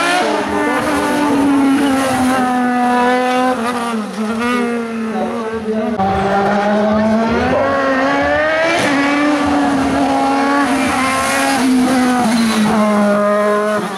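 Hill-climb race car engine at full throttle, its pitch climbing and dropping back at each gear change. The sound breaks off abruptly about six seconds in, and another run follows with the same pattern of climbing revs and shifts.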